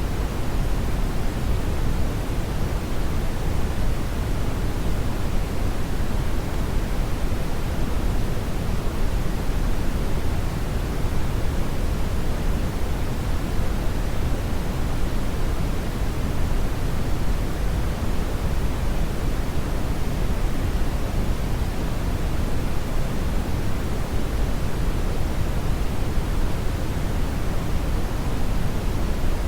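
Brown noise: a steady, even rushing hiss weighted heavily toward the low end, with no change or events.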